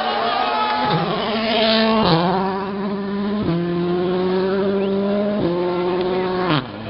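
Rally car engine running hard under load, its note stepping down in pitch four or five times as it changes gear.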